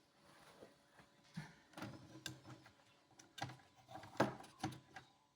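A string of irregular light clicks and knocks, the loudest about four seconds in, like small hard objects being handled and set down.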